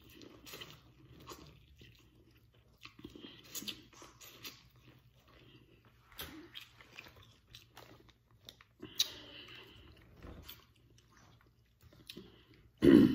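Close-miked eating sounds: biting and chewing food, corn on the cob among it, with small crunches and clicks scattered throughout. A brief loud thump comes near the end.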